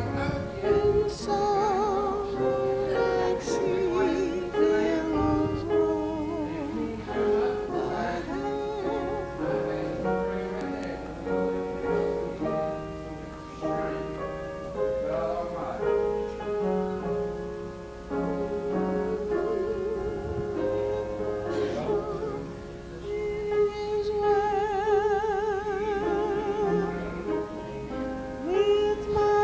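A woman singing with vibrato to instrumental accompaniment, the held notes wavering throughout.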